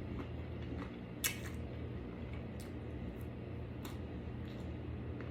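Eating chicken wings: a few short wet smacking clicks of chewing, the sharpest about a second in, over a steady low hum.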